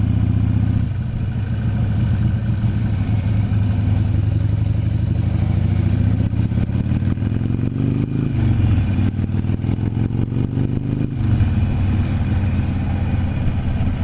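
Motorcycle engine running under way. Its pitch climbs for a couple of seconds about halfway through, then drops, as when the rider accelerates and shifts up a gear, and it changes again a few seconds later.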